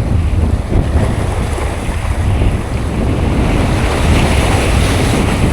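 Strong wind buffeting the microphone, a steady low rumble over the wash of sea waves.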